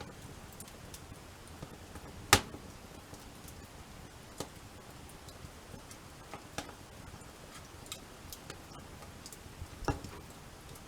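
Wood fire crackling: scattered sharp pops and snaps over a low steady hiss, the loudest pop a couple of seconds in and another strong one near the end.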